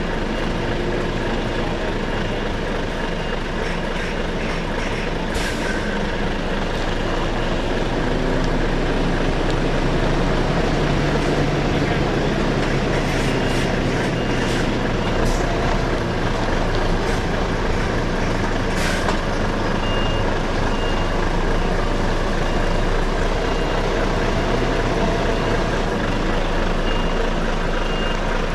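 Articulated lorry reversing: the diesel engine runs steadily under a repeating reversing-alarm beep. A couple of short hisses break in, about five seconds in and again near nineteen seconds.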